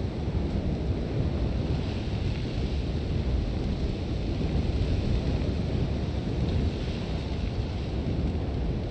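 Sandstorm wind blowing hard and steadily, with a deep rumble and a fainter hiss of blowing sand.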